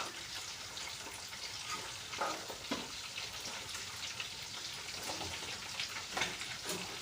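Food sizzling and crackling as it fries in a pan, with a few louder crackles now and then.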